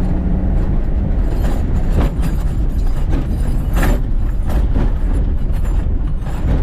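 Budget pickup truck being driven hard over a bumpy field: a heavy low rumble with clattering, banging knocks throughout, from a front end that has just broken.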